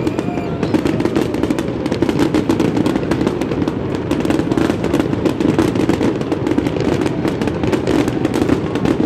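Aerial fireworks display bursting and crackling, a dense run of overlapping bangs and crackles with no pause.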